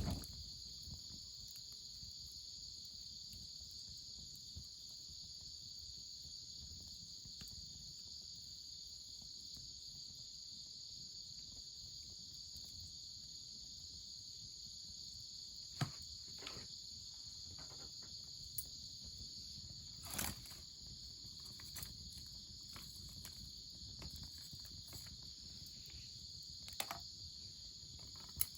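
Steady, high-pitched chorus of crickets or similar insects, with a few scattered sharp clicks from about halfway through.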